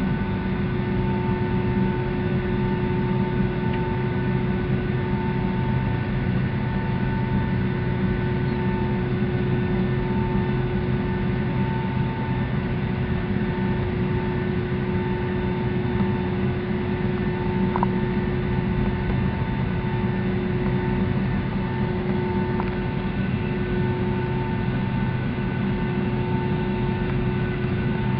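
Steady cabin drone of a Boeing 757-200 airliner's jet engines running at an unchanging low power, with a steady hum and a faint tone pulsing on and off about once a second.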